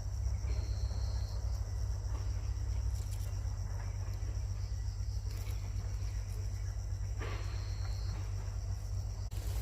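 Insects chirring steadily at a high pitch over a constant low rumble, with a brief higher note near the start and again near the end.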